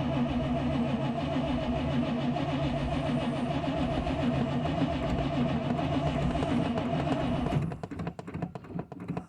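Starter cranking the carbureted Chevy OBS pickup's engine in deep cold, with a steady, even rhythm, without the engine catching. The cranking stops about eight seconds in, followed by scattered light clicks.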